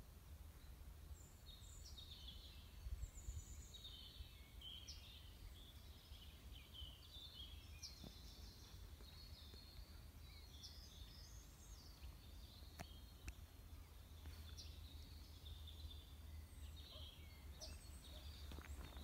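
Near silence: faint birds chirping and twittering in the woods over a low steady rumble, with a few faint clicks.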